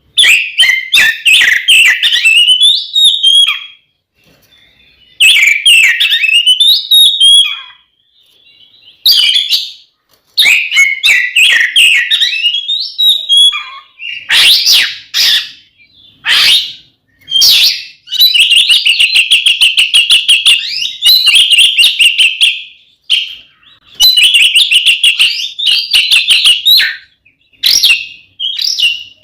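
Oriental magpie-robin (kacer) singing loudly in its aggressive fighting song: bursts of varied whistled and chattering phrases with short pauses between them, and fast repeated-note trills in the second half.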